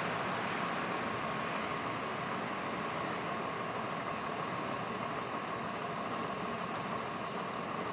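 Diesel engine of a railway work train idling steadily, a constant hum with a hiss over it.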